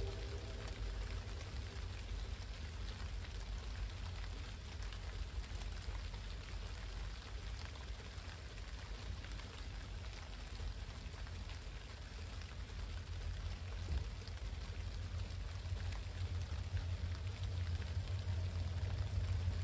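Steady rain falling, with a low rumble underneath that swells toward the end.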